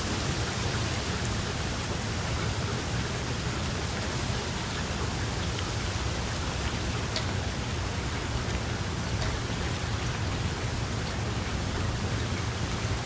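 Steady rainfall, an even wash of noise with scattered faint drop ticks and a steady low rumble underneath.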